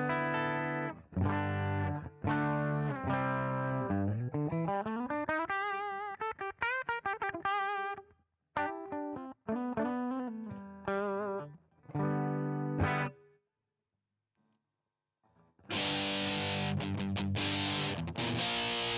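Electric guitar through a CoolMusic Insane Distortion pedal: heavy distorted chords, then a rising run of single notes with vibrato, then short chopped chords. After a pause of about two seconds, a thicker, fizzier distorted riff starts near the end.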